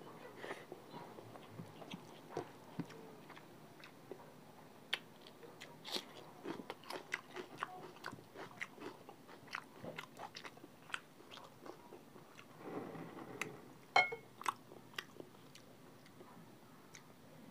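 Close-miked chewing and biting of chicken feet in curry with rice: an irregular string of short wet clicks and smacks, the sharpest one about fourteen seconds in.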